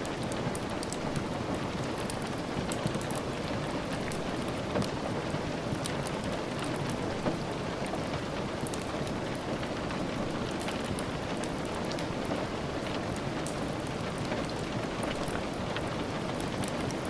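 Steady rain falling, with many small, sharp ticks scattered through it.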